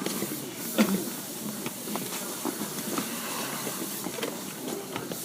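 Seibu 6000 series commuter train standing at a station: a steady hiss with no traction-motor sound, and a single sharp knock about a second in.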